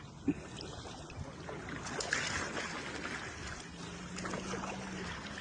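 Water trickling and lapping against a sailing kayak's hull as it moves, with a small knock just after the start and a faint steady low hum for about a second near the end.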